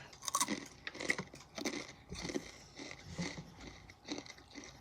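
Takis rolled tortilla chips being crunched and chewed, in irregular crunches.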